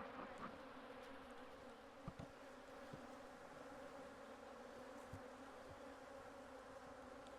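Steady, faint hum of a mass of honeybees from an opened hive, with a few soft knocks.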